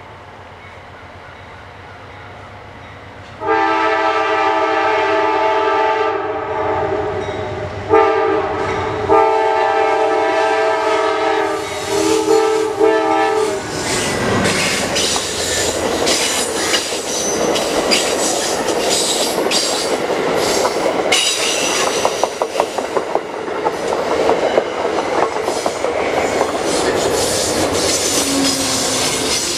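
A train horn sounds a series of mostly long blasts as the train nears the crossing. Then the train passes close by: stainless-steel passenger cars rumbling, with rapid clicking of wheels over the rail joints, and an Amtrak diesel locomotive at the rear going by near the end.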